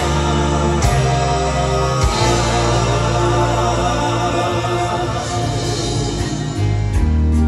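Gospel band playing an instrumental passage between sung lines, held bass notes shifting every second or two under full chords.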